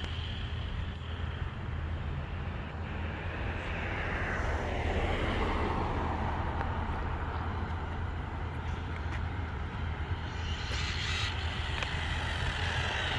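A vehicle going past: its pitch falls over a couple of seconds, about a third of the way in, over a steady low rumble.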